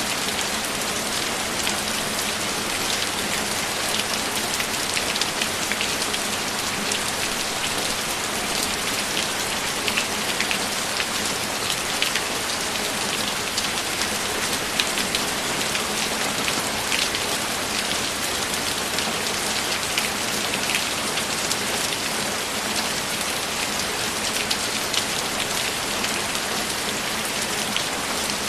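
Steady rain falling, with many close, sharp drops ticking on a surface over the even hiss of the downpour.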